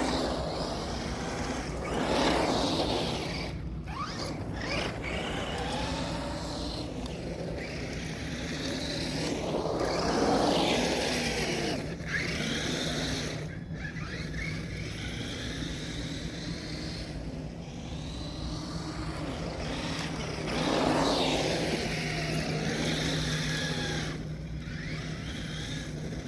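Brushed electric motor of a Traxxas Rustler 4x4 RC truck whining up and down in pitch as the truck accelerates, slides and slows in repeated passes, with three louder swells.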